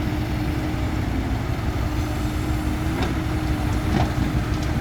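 Heavy diesel engine running steadily at low revs, a low rumble with a constant hum, with a couple of faint clicks about three and four seconds in.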